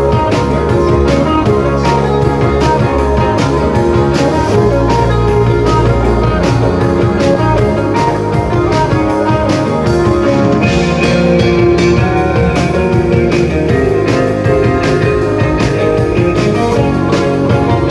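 Live rock band playing, with guitar over a steady drum beat.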